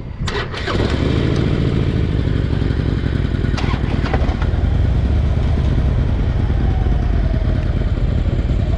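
Motorcycle engine pulling away, then running at a steady pace, a loud even rumble. A few short clicks come right at the start.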